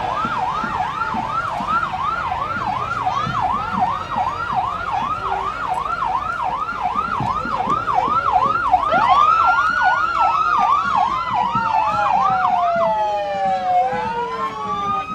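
Emergency vehicle siren in a parade, first on a fast yelp of about three cycles a second; about nine seconds in a slow wail rises, falls over several seconds and rises again, overlapping the yelp for a while.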